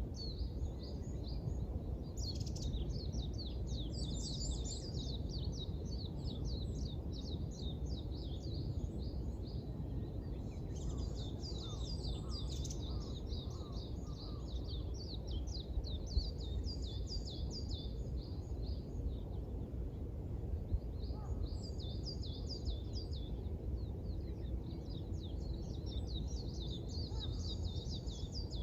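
Birds chirping in quick, dense high runs, with brief pauses, over a steady low background rumble.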